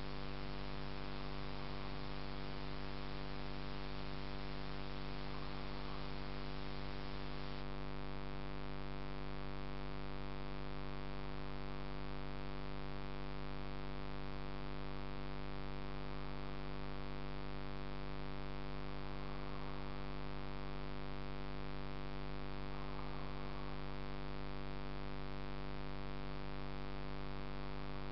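Steady electrical hum: a buzz of many even overtones over a constant hiss, with no change in level.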